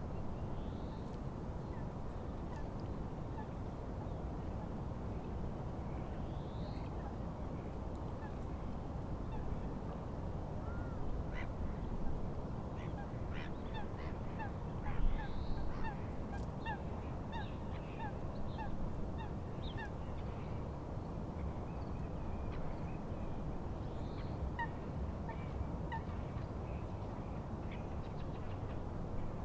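Birds calling over a steady rush of wind and lapping water: scattered short calls throughout, with a run of short repeated notes in the middle.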